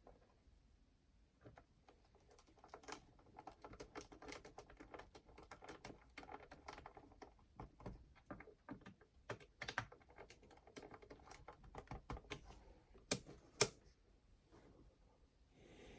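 Hands working on a clock radio/cassette player's plastic case and small parts: a run of light clicks and taps, with two sharp, louder clicks in quick succession near the end.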